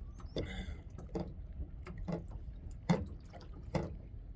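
Small waves lapping against a kayak's hull: short watery slaps at roughly one a second, over a low rumble.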